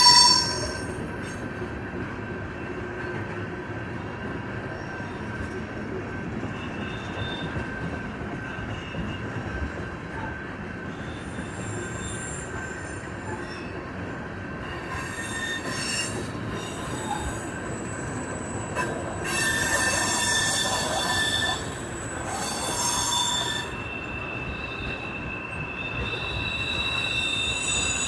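Loaded tank cars of a long Union Pacific freight train rolling past, a steady rumble of wheels on rail under high-pitched wheel squeal. The squeal holds on several steady tones and grows louder in surges about two-thirds of the way through and again near the end.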